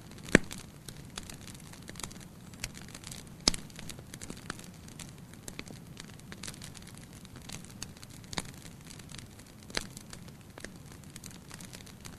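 Wood fire crackling in a fireplace: sharp, irregular pops over a low, steady rumble of the flames. The loudest pops come about half a second in and about three and a half seconds in.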